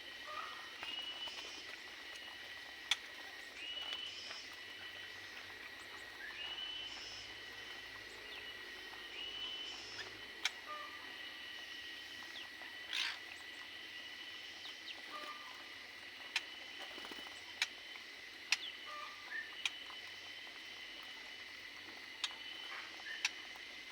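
Small aviary birds chirping in short calls every second or two, with scattered sharp clicks and one louder call about halfway through.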